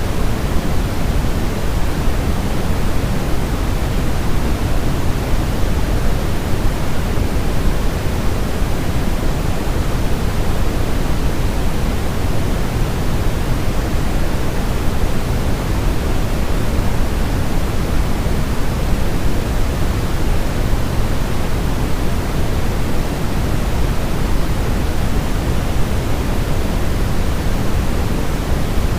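Steady, unchanging white-noise track for baby sleep, weighted toward the low end so it sounds like a deep, even rushing hiss.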